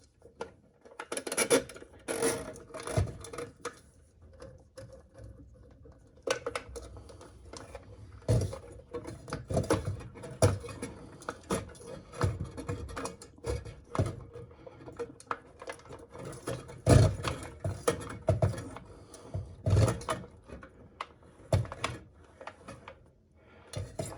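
Hand drum drain auger being cranked, its coiled steel cable spinning and feeding into a clogged drain pipe: irregular scraping, rattling and knocking of cable against drum and pipe.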